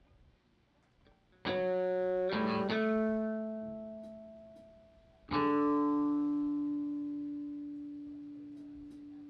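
Guitar chords strummed and left to ring: a chord about a second and a half in with two quick changes that fade out, then a single chord struck a few seconds later that rings and slowly dies away.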